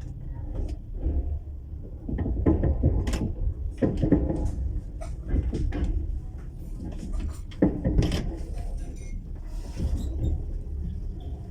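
Scattered knocks, bumps and clatter inside a sleeper train carriage, over a steady low rumble.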